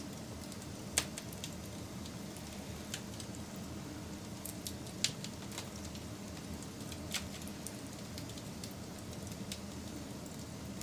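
Wood fire crackling and popping over a steady low rush of burning, with scattered sharp pops, the loudest about a second in, about five seconds in and about seven seconds in.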